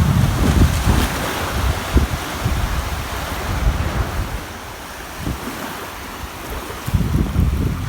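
Ocean surf: waves washing in with a low rumble, a swell in the first few seconds that eases off, then another wave coming in near the end.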